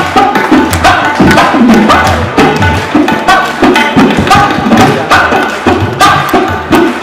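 Rock band playing live, driven by busy, rhythmic drum and hand-percussion strikes with pitch-bending drum notes over the instruments.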